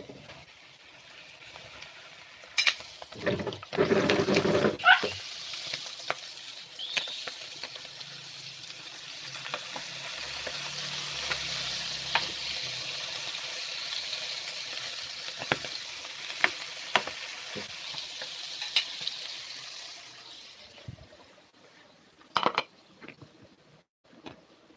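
Boiled chicken intestines frying in hot oil in a frying pan: a steady sizzle with scattered pops and clicks, with a louder burst of crackling about four seconds in. The sizzle dies down near the end.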